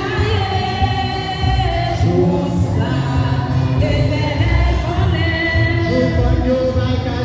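Choir singing a hymn over instrumental backing with a pulsing bass line.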